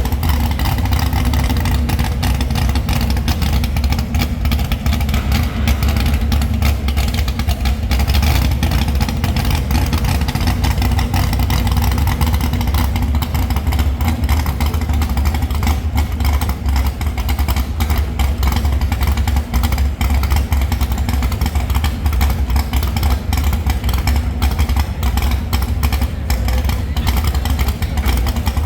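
A competition pulling vehicle's engine running loud and steady, a deep low rumble with some rattle over it.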